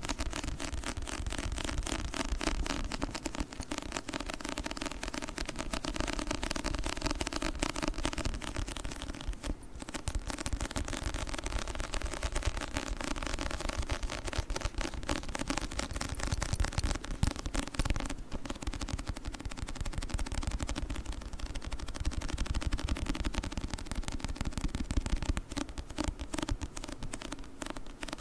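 Fingers tapping and peeling off a sticky book surface, giving a dense, rapid run of crackling clicks, with brief pauses about ten and eighteen seconds in.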